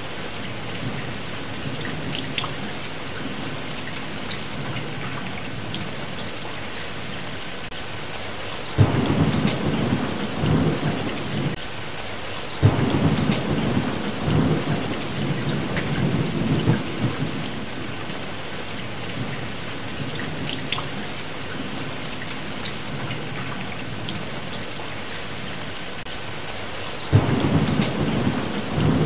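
Steady heavy rain with rolls of thunder that break in suddenly about 9 seconds in, again about 13 seconds in, and near the end, each rumbling for a few seconds. Small crackles from a log fire are scattered through it.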